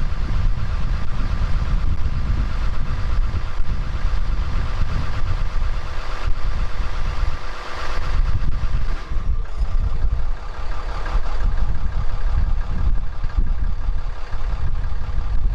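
Cummins 6.7 L turbo-diesel inline-six in a 2018 Ram 5500 chassis cab idling steadily at 0°F, cold-started with only the grid-heater preheat cycle and no block heater.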